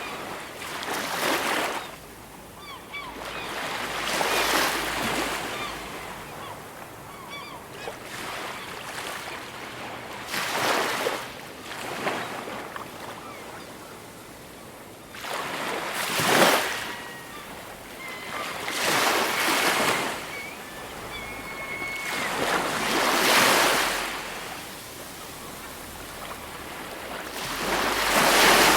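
Ocean surf: waves breaking on a shore every few seconds, each one swelling and then washing away. Faint short bird calls sound between the waves.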